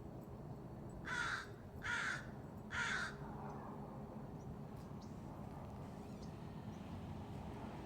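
A crow cawing three times in quick succession, each caw a short hoarse call about a second apart, all in the first three seconds.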